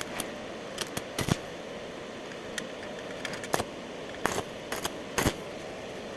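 Short, sharp metal clinks and taps, a dozen or so at irregular intervals, over a steady hum.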